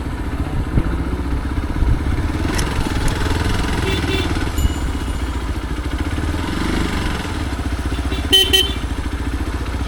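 Motorcycle engine running steadily, with a brief high-pitched tone about eight seconds in.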